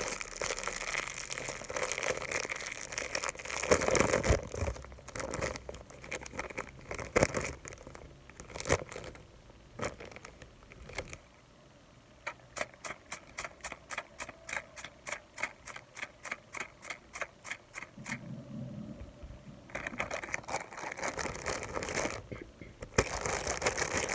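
ASMR trigger sounds close to the microphone: rustling and crinkling with scattered clicks, then an even run of sharp taps or clicks at about five a second for several seconds, and crinkling again near the end.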